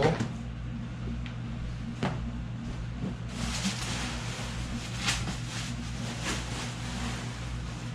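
Handling noise from a deflated PVC inflatable kayak: the material rustles and scrapes, with a few sharp clicks and a longer stretch of rustling about halfway through, over a steady low hum.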